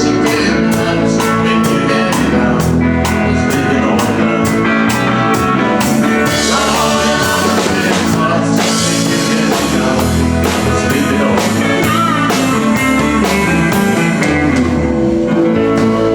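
Live country band playing a song with guitar and drum kit, the drums keeping a steady beat.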